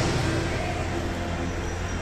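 Motorcycle engine running steadily at low revs, with background music.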